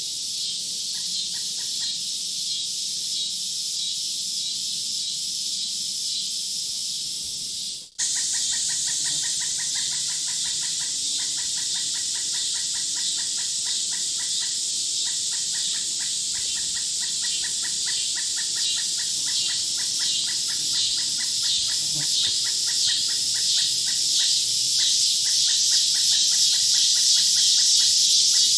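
A steady, high-pitched chorus of insects, cut by a sudden brief dropout about eight seconds in. After it, a rapid pulsing call joins the chorus and the high pulsing grows louder toward the end.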